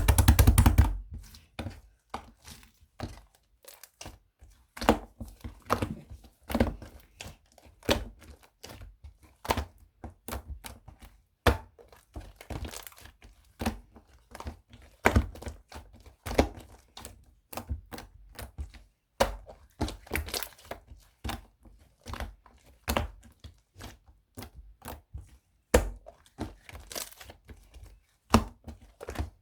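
Hands squeezing and poking slime: irregular wet clicks, pops and crackles, a couple a second, with a louder burst at the very start.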